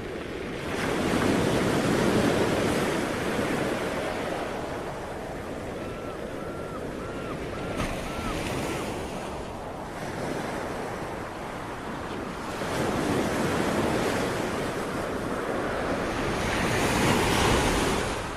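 Sea waves breaking and washing on the shore, swelling up about a second in, again around twelve seconds in, and once more near the end. A faint run of about six short high chirps sounds midway.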